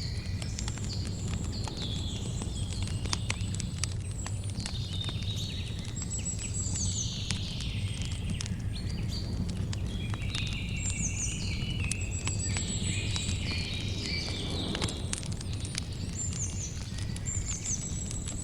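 Campfire crackling, with frequent sharp pops and snaps over a low steady rumble. Birds call and chirp repeatedly over the fire.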